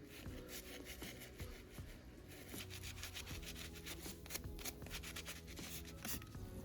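Rapid rubbing strokes, several a second, of abrasive scrubbing by hand on a part being cleaned of rust.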